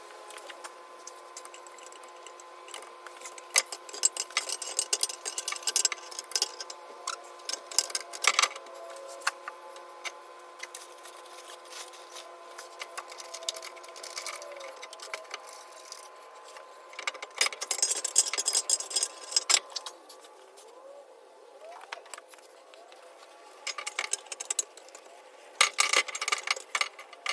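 Hand tools and metal exhaust parts clicking, clinking and rattling while a header is fitted under a car, with two denser runs of rapid clicking, one about two-thirds in and one near the end.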